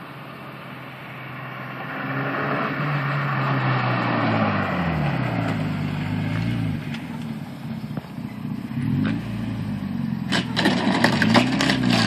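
Volkswagen Jetta Mk2's 2.0-litre ABA four-cylinder engine through a Borla exhaust, getting louder after about two seconds, its pitch rising and falling several times. About ten and a half seconds in comes a short run of sharp cracks.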